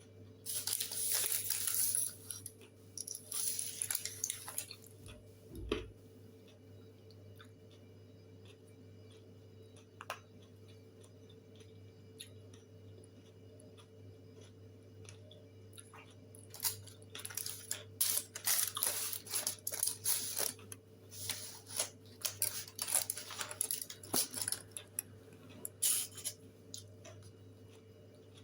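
Eating sounds: grilled chicken being torn apart and chewed, in crackly bursts with quieter stretches between, over a steady low hum.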